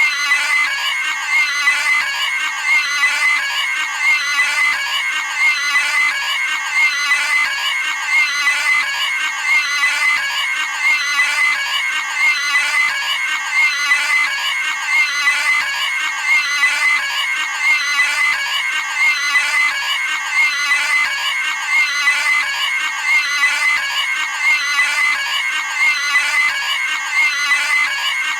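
Cartoon pig's high-pitched squealing scream, repeated over and over in an unbroken loop.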